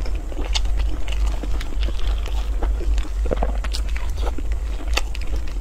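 Close-miked chewing and biting of seafood, with irregular sharp clicks and crunches, and plastic gloves rustling as hands pull the food apart, over a low steady hum.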